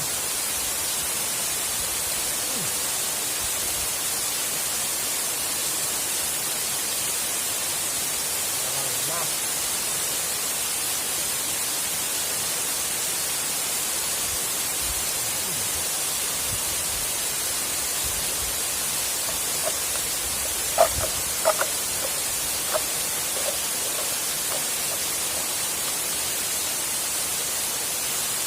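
Waterfall rushing: a steady, unbroken hiss of falling water. A few short sharp clicks come about twenty seconds in.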